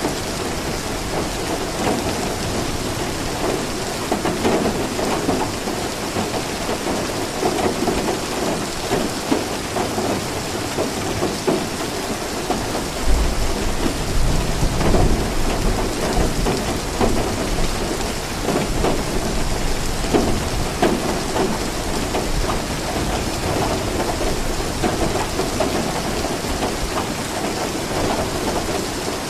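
Steady rain falling, with a low rumble of thunder a little before halfway through.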